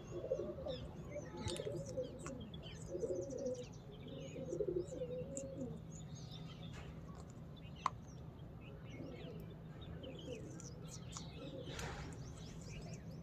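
Birds calling: low, wavering cooing calls through the first half, with scattered short high chirps throughout. A single sharp click sounds a little past halfway.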